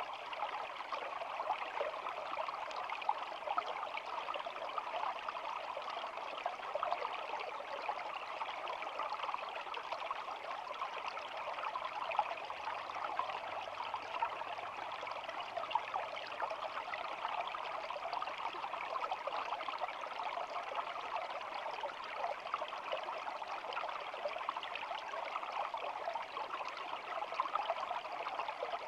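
Shallow stream babbling and trickling steadily over stones, a continuous splashing rush with no pauses.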